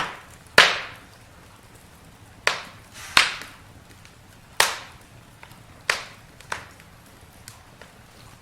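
Burning wood in a campfire crackling and popping: about seven sharp pops, the loudest about half a second in, with fainter ticks between them over a faint steady background of the fire.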